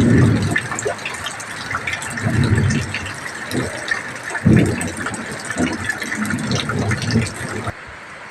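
Heavy rain falling steadily in a dense patter, broken by several low rumbling gusts of wind. About a second before the end the sound drops suddenly to a quieter, steady rain.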